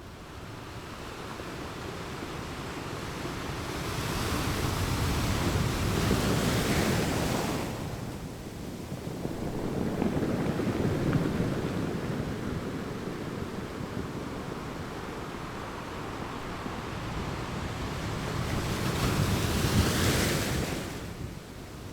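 Ocean surf on a beach, swelling and ebbing in slow waves. Two larger waves break with a rushing hiss, about six seconds in and again near the end, and a lower surge of water comes between them.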